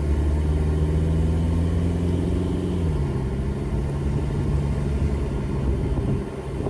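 BEW 1.9 L four-cylinder TDI diesel in a Jeep TJ Wrangler running steadily while driving, with the AW4 automatic behind it. The engine's pitch drops about two and a half seconds in, as at an upshift.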